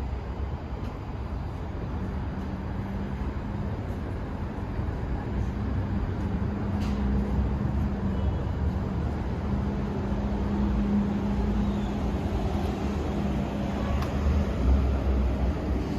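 Rumble of an approaching train with a steady low hum, slowly growing louder.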